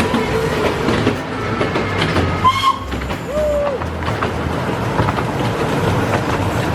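Miniature steam railway train running along the track, its wheels clattering over the rails with the carriages rattling. There is a brief high-pitched note about two and a half seconds in.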